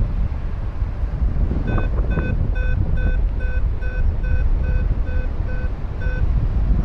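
Paragliding variometer beeping: about a dozen short beeps of steady pitch, roughly two and a half a second, starting about two seconds in and stopping near the end, the vario's tone for climbing in rising air. Heavy wind noise on the microphone runs underneath.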